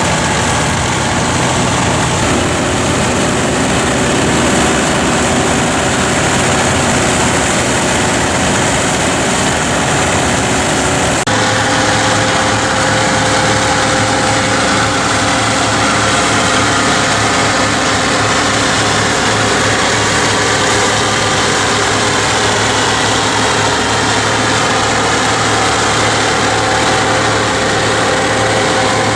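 Massey Ferguson tractor engine running steadily under load while a forage harvester cuts silage. The sound changes abruptly about eleven seconds in, to a steadier note with a clearer hum.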